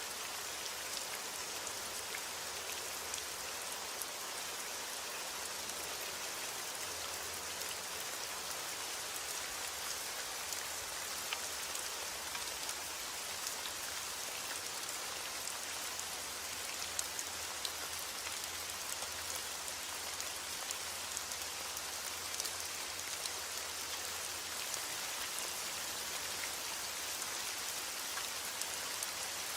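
Steady heavy rain falling, a dense even hiss of countless drops with small individual drop ticks.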